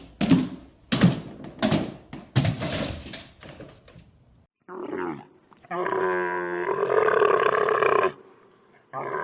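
Farm animal calling: a run of about eight short calls with sharp onsets, a brief falling call, then one long low pitched call of about two seconds.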